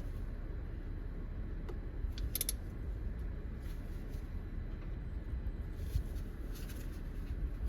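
Hand tool working on a tight 12 mm bolt: a short burst of quick metallic clicks about two and a half seconds in, with faint scraping and handling noise over a low, steady rumble.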